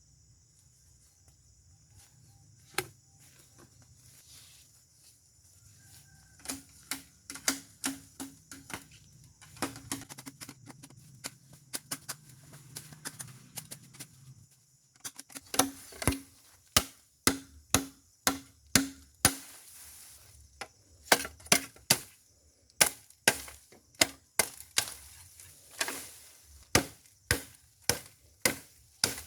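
Bamboo being chopped with a blade: runs of sharp, hollow strikes, about two or three a second, each with a short ringing tone from the bamboo. The chopping starts a few seconds in, stops briefly near the middle, then goes on steadily.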